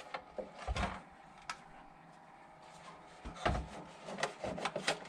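Scattered light knocks, taps and rubbing from a plastic RC car body and tape being handled and lined up. The sounds are quieter in the middle and busier near the end.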